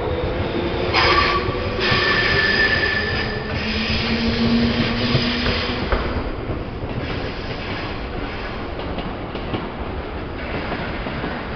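JR East 211 series 3000-subseries electric multiple unit running past along the platform, the cars rumbling over the rails with high wheel squeal in the first few seconds. After the last car goes by, about halfway through, the rumble carries on a little lower as the train moves away.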